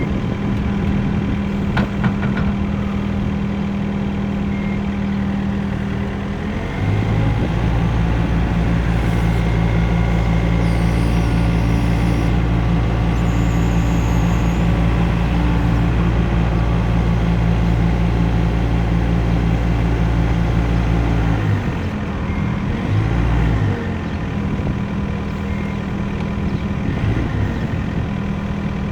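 Engine of a piece of heavy farm or construction equipment running at idle, then raised to a higher steady speed about six or seven seconds in, held there for about fifteen seconds, and dropped back to idle, with a couple of brief changes in engine speed afterwards.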